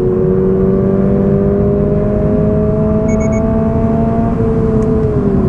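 Toyota GR86's 2.4-litre flat-four engine pulling under acceleration, its note rising slowly and steadily, then falling about five seconds in as the revs drop. Three short, faint beeps sound about three seconds in.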